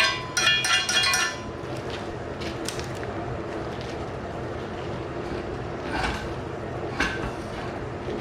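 A few quick hammer strikes on steel, each ringing at clear metallic pitches, stop about a second in. A steady low background noise follows, with two single metal clinks near the end.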